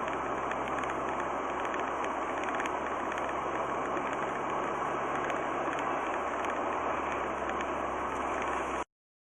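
Steady engine and road noise of a moving vehicle, picked up by a dash cam, with a low even hum under it; it cuts off abruptly near the end.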